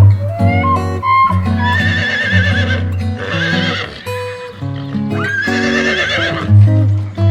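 Horse whinnying: three wavering calls over background music.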